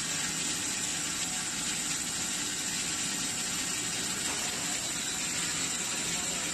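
Horizontal band saw running steadily: an even, unchanging machine noise with a steady high hiss.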